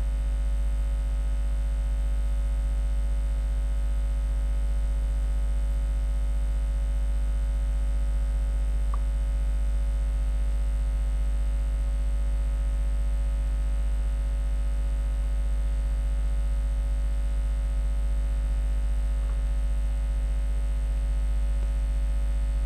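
Steady electrical mains hum, a low 50 Hz drone with a buzzy ladder of overtones, unchanging throughout.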